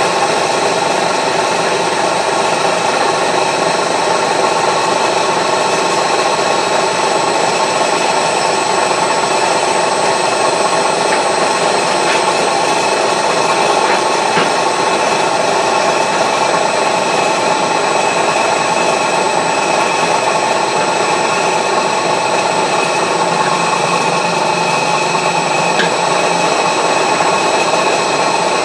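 Milling machine running steadily with a 16mm carbide cutter taking a light 20 thou skim pass across a steel wood chipper blade, a continuous machining noise with a steady high whine.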